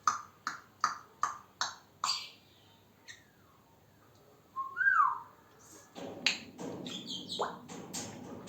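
African grey parrot making a quick run of six short clicky chirps, about three a second. A lone rising-then-falling whistle follows, then a jumble of squeaks, clicks and chirps near the end.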